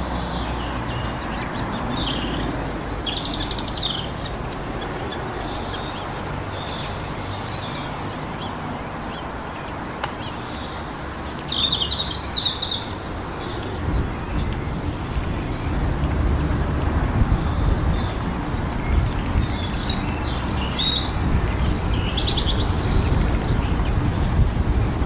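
Small birds chirping and singing in short bursts of phrases, three times, over a steady low rumble that grows louder about halfway through.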